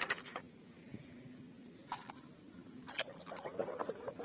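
Plastic toy vehicles being handled during cleaning: a few light clicks and knocks with soft, wet rubbing and squishing.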